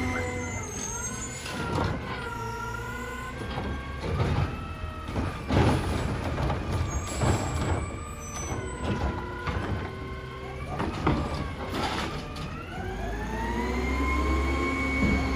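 Heil Durapack Rapid Rail side-loader garbage truck working: its engine and hydraulics whine, dropping in pitch just after the start and rising again near the end as the arm cycles, with several sharp bangs and clanks from handling the load.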